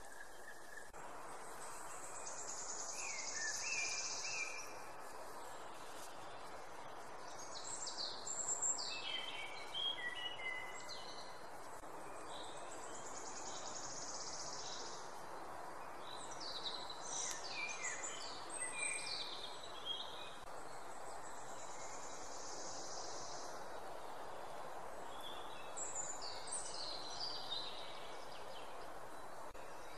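Outdoor spring ambience: small songbirds singing short, quick chirping phrases several times over a steady background hiss.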